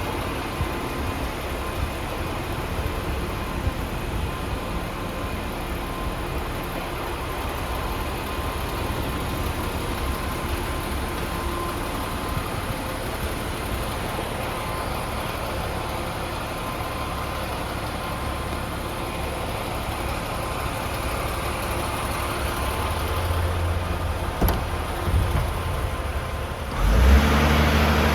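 DAF CF480 tractor unit's Paccar 480 bhp diesel engine idling steadily, with a louder surge near the end.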